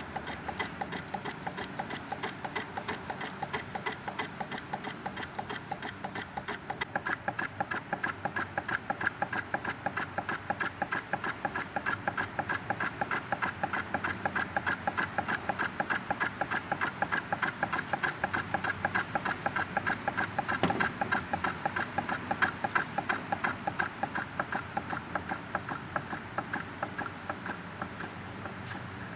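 1903 Essex hot air engine built by W. H. Smith Co. running steadily, its mechanism knocking rhythmically about four times a second. The knocking gets louder about seven seconds in.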